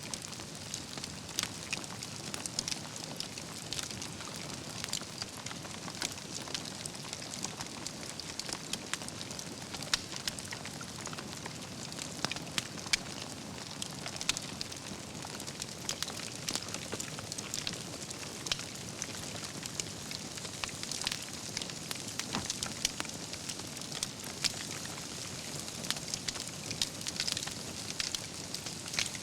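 Wood fire burning: logs crackling, with frequent sharp pops scattered irregularly over a steady hiss.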